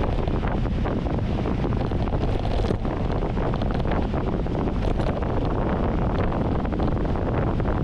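Wind buffeting the microphone during a fast mountain-bike descent, with the tyres rumbling and many small knocks and rattles from the bike over rough dirt.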